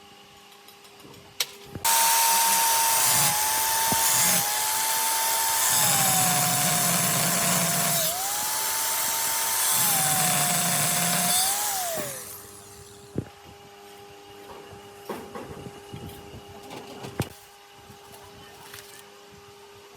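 Handheld electric power tool running at high speed for about ten seconds, its pitch sagging several times as it is pressed into the work, then winding down. A few knocks and clicks of parts being handled follow.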